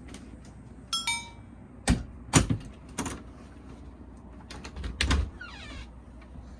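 A run of sharp knocks and clicks, irregularly spaced, loudest about two and a half seconds in, with a brief ringing tone about a second in.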